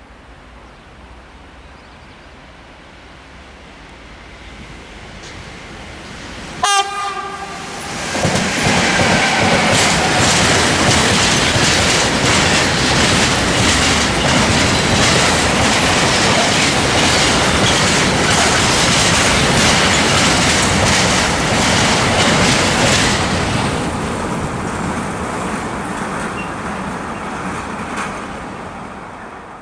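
A train approaching gives a short horn blast, then passes close by for about fifteen seconds with a loud rush and a rapid clatter of wheels over the rails, fading away near the end.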